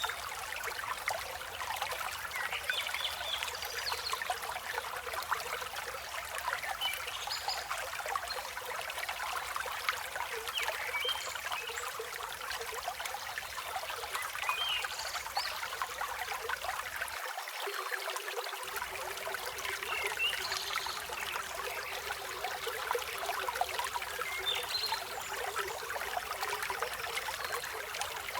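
Steady rush of a clear flowing river, with short bird chirps now and then.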